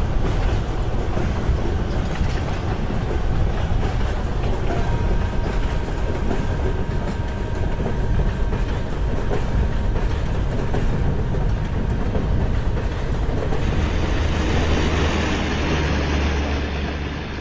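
Train in motion on the rails: a continuous rumble and rattle, with the low rumble growing heavier near the end.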